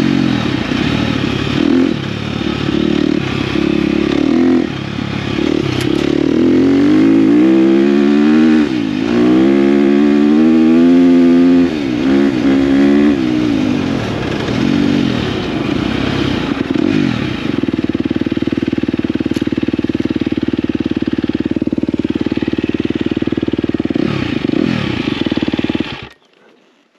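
KTM dirt bike engine under way, its pitch rising and falling as it revs up and shifts, then settling to a steady note at constant speed. The sound cuts off suddenly near the end.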